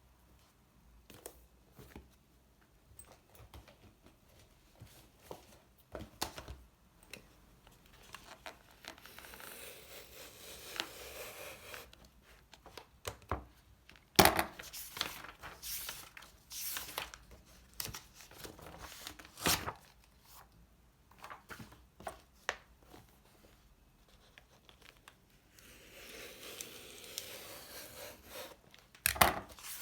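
Small handling sounds of everyday objects: scattered clicks and knocks, with two stretches of rustling, like paper or packaging being crumpled or torn, lasting a few seconds each.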